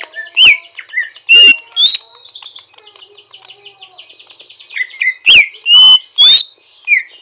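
Greater green leafbird (cucak ijo) singing: loud, sharp whistled notes sliding up and down, separated by a fast, harsh twittering trill in the middle.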